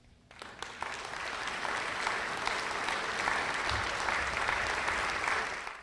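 Audience applauding: clapping starts about a third of a second in, swells quickly to full, dense applause and holds steady, dropping off right at the end.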